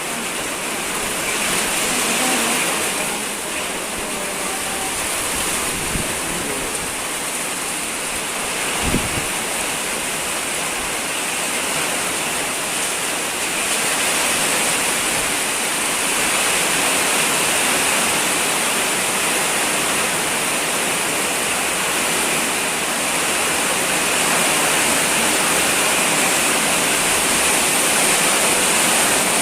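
Heavy rain pouring down steadily in a dense, even hiss that grows a little louder about halfway through, with a couple of brief dull knocks early on.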